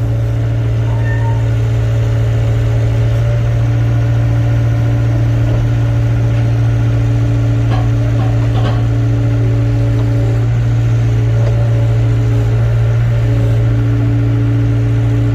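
Excavator's diesel engine running steadily, a constant low drone with a higher hum above it that breaks off briefly a few times.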